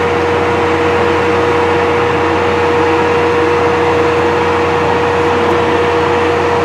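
Steady drone and hiss of trains at a station, with a constant mid-pitched whine.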